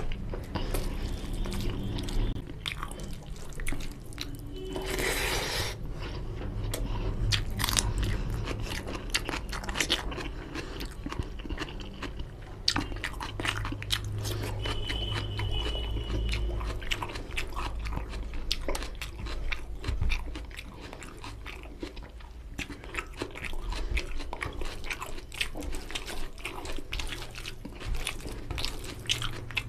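Close-miked chewing of mouthfuls of mutton curry and rice, with many small wet clicks from the mouth and from fingers mixing rice into the gravy.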